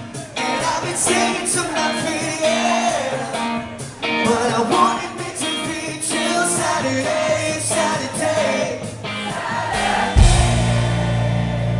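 Live rock band playing with singing. About ten seconds in, a loud, low, sustained band note comes in abruptly and holds.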